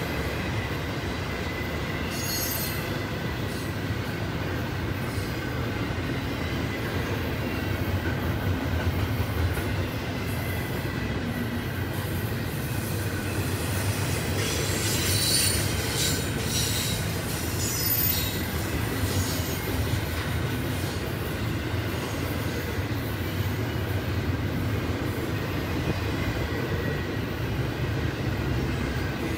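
Double-stack intermodal freight cars rolling past: a steady rumble of steel wheels on rail with a faint ringing tone, and brief high wheel squeals about two seconds in and again around fifteen to nineteen seconds.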